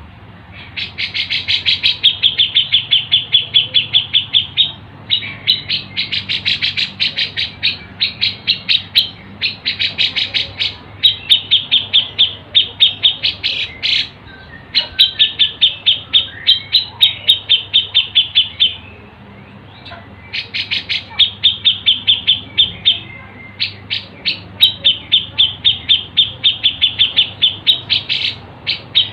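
A songbird's call repeated as rapid, sharp chirps, several a second, in runs of a few seconds with short pauses between them, as played in a bird-song tutor track.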